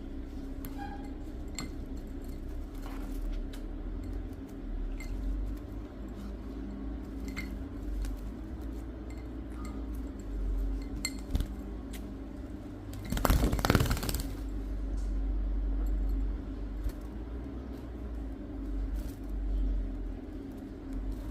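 Light clinks against a drinking glass as a pet bird bathes in it, with a louder, noisier burst of splashing lasting about a second a little past halfway. A steady low hum runs underneath.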